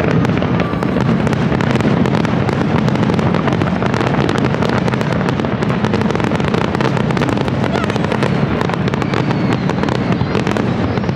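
Fireworks finale: a dense, continuous barrage of aerial shell bursts and crackles, the reports overlapping with no pause.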